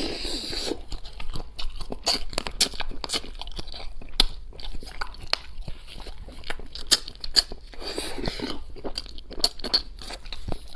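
Close-up chewing and biting of charcoal-roasted rooster: irregular crunching with many quick clicks and smacks.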